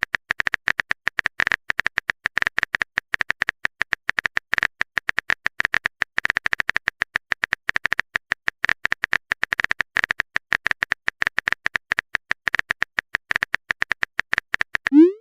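Rapid, irregular clicking of a phone-keyboard typing sound effect, many clicks a second with short gaps.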